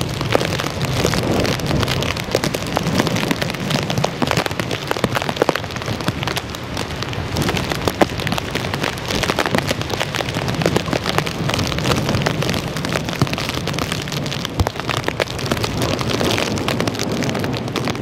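Hurricane Irene's wind and driving rain: a steady rush of noise with many small sharp ticks as rain and blown sand pelt the microphone.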